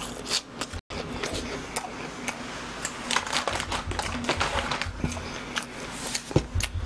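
Close-miked chewing of fried BHC cheese balls, with small wet mouth clicks. About three seconds in, a paper napkin rustles as the hands are wiped with it.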